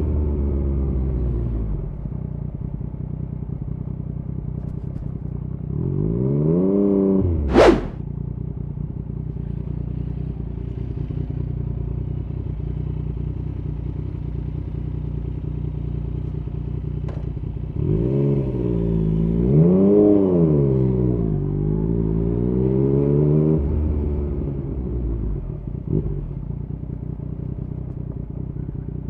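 2016 Yamaha MT-09's three-cylinder engine with an Arrow aftermarket exhaust, idling and being revved. The revs fall to idle at the start, then a rev climbs and ends in a single sharp crack about eight seconds in. Around eighteen seconds in come a few quick rises and falls in revs before it settles back to idle.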